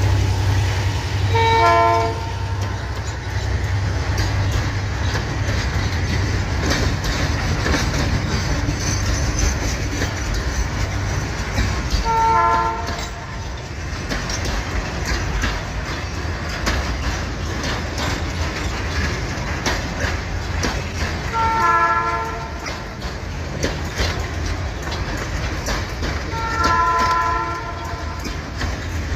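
Freight train of loaded grain hopper cars passing, a steady rumble with wheels clattering over the rail joints. A horn sounds four short chord-like blasts, about a second in, then about 12, 22 and 27 seconds in.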